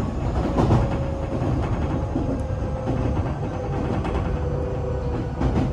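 Tokyo Metro 8000-series train running, heard from inside the car: a steady rumble of wheels on track with a faint drive whine holding a few steady pitches. A couple of sharp knocks come from the wheels over rail joints, one about half a second in and one near the end.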